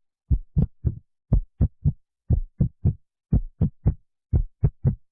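Dull, low thumps in a steady rhythm, three quick strokes about once a second, like a heartbeat or muffled knocking.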